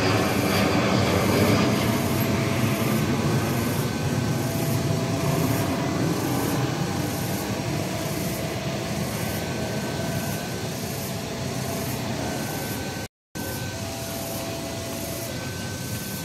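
Steady rumble of a diesel-hauled passenger train approaching along the track, with faint short steady tones coming and going over it. The sound cuts out briefly about thirteen seconds in.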